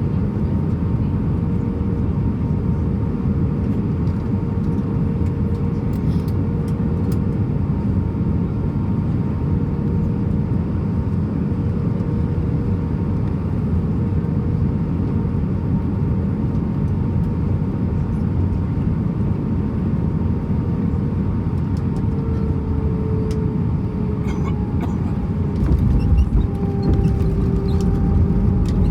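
Airbus A320 cabin noise: a steady rumble with a faint engine hum that sinks slightly in pitch near the end, as the low rumble grows louder.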